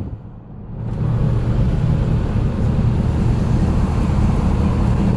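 Wind and road noise rushing into a moving car, likely through an open window, starting up about a second in and holding steady and loud.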